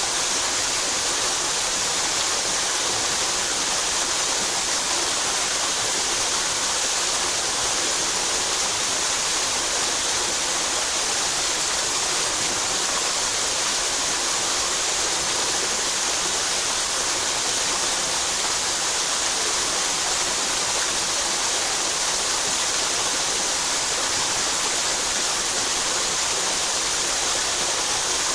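Mountain headwater stream rushing steadily over rocks, an even hiss of fast water with no pauses or changes.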